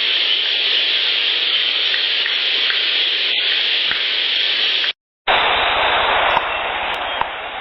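Heavily amplified field-recorder audio made up mostly of steady hiss, with a few faint short ticks in it. About five seconds in it cuts out briefly and a second, duller hissy clip follows.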